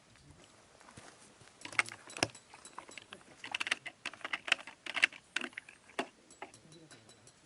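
Quick, light clinks and rattles of small hard objects being handled, jangling in clusters for a few seconds before thinning out near the end.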